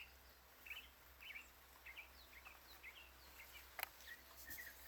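Faint backyard birdsong: a small bird chirping in quick short notes, several a second. A single sharp click sounds about four seconds in.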